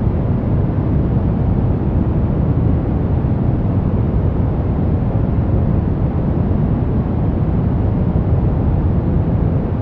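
Brown noise: a steady, even rushing hiss weighted heavily toward the low end, with no changes or events.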